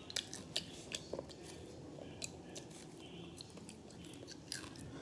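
Faint, irregular crunches and clicks of popcorn being bitten and chewed.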